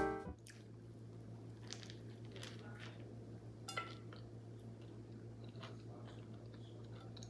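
A person chewing and biting into a focaccia sandwich, with faint scattered crunches and small mouth clicks and a slightly louder crunch a little under four seconds in. Background music cuts off at the start, and a steady low hum sits under the chewing.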